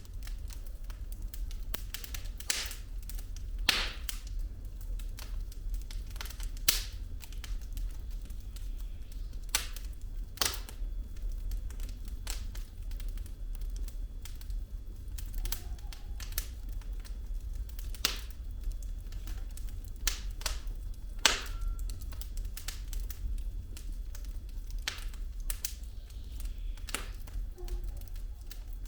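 Firewood burning in a fireplace, crackling with irregular sharp pops and snaps, a few of them louder, over a steady low rumble.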